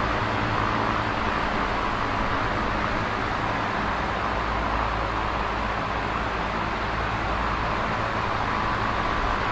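Electric fan running steadily: a constant rush of air with a low, even hum underneath.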